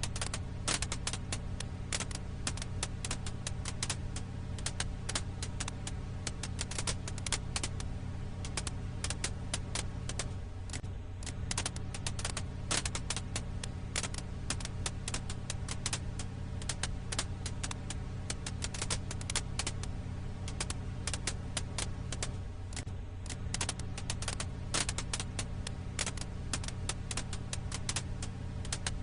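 Firewood crackling in a campfire: a dense, irregular run of sharp snaps and pops over a steady low hum.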